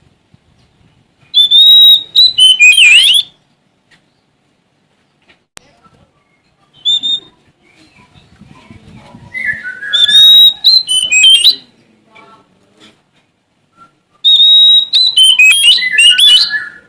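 Oriental magpie-robin (Sumatran kacer) singing loud, varied whistled phrases in three bursts of about two seconds each, with a short single note between the first two.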